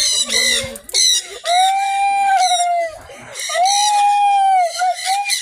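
Birds calling: two long, drawn-out, arching calls, the first about a second and a half in and the second at about three and a half seconds, over a steady stream of rapid high chirping.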